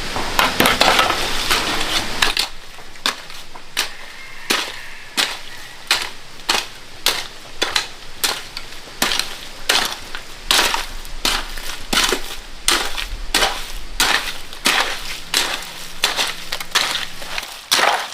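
Hand-tool work: a couple of seconds of dense crunching and scraping, then steady crunching strikes about two a second.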